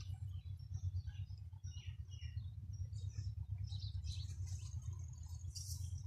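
Small birds chirping in short, scattered high notes, over a steady low rumble.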